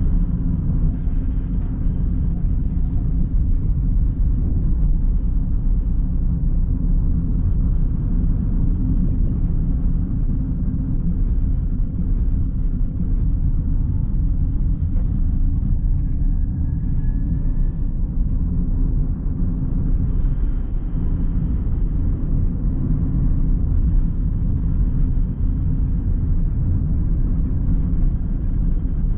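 A car driving downhill, with steady low road and engine rumble and no change in pace.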